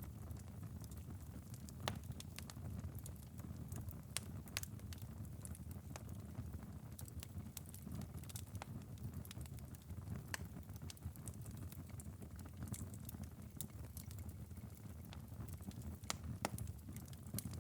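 Bed of glowing wood embers in a fireplace crackling, late in a long burn. Irregular sharp pops and ticks, a few louder than the rest, sound over a steady low rumble.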